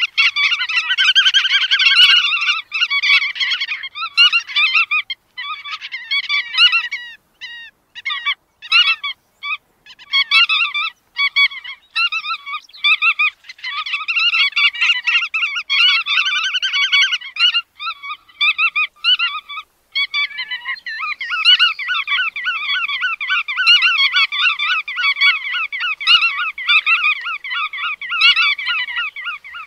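Bar-tailed godwits calling: rapid, nasal, repeated calls in bursts broken by short gaps, running almost without a break from about twenty seconds in.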